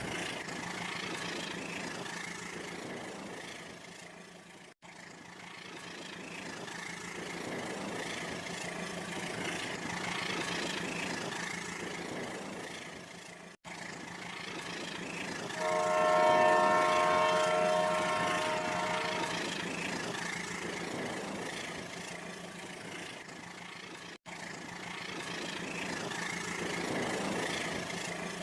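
A train horn sounds one long blast of about four seconds, midway through, over a steady train running noise; the sound drops out abruptly three times for a split second.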